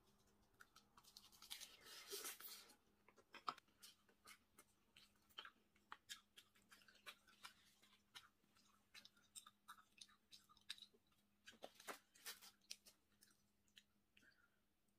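Faint close-up eating sounds: a person chewing, with many small mouth clicks and smacks. There are two denser, noisier stretches, one about two seconds in and another near twelve seconds.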